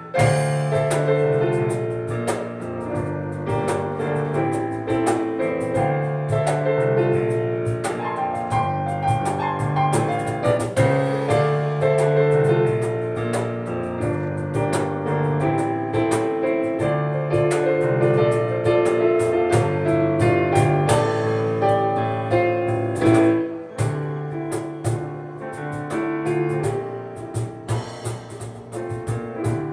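Acoustic piano and cajón playing a fast instrumental piece live: busy piano lines over repeated cajón strikes, with a short break about 23 seconds in.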